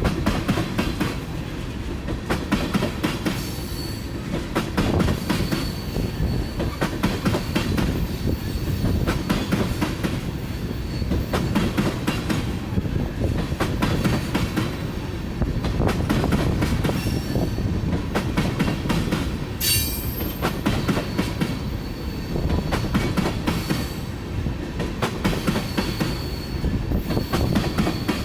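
Tank cars of a freight oil train rolling past: a steady rumble with wheels clicking rhythmically over rail joints and a faint wheel squeal. A brief sharp wheel squeal comes about twenty seconds in.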